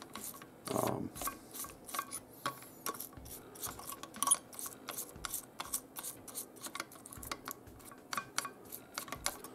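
Toothbrush scrubbing a diecast car body in a glass dish of aircraft paint stripper, stripping the softened paint. Quick, irregular scratchy strokes with small clicks of the metal car and tweezers against the glass.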